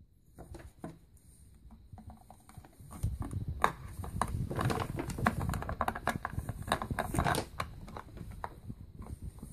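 Hard plastic toy parts clicking, knocking and rustling as a small figurine is pushed into a toy helicopter's cabin. The handling is busiest from about three seconds in to about seven and a half seconds.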